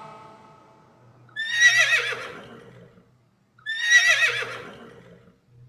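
Horse whinnying twice, each a wavering high neigh that fades out, the second about two seconds after the first.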